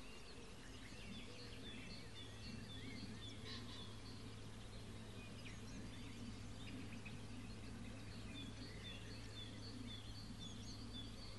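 Small birds chirping outdoors, in repeated runs of short high chirps, over faint background noise and a low steady hum.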